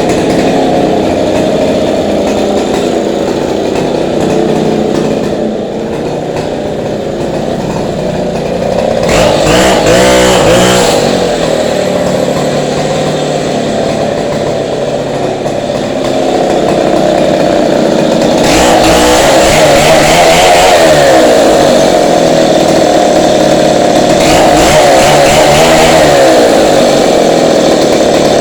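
Chainsaw engine running continuously, its speed rising and falling, with louder, harsher stretches about nine seconds in and from about eighteen seconds on as the saw cuts into the wall.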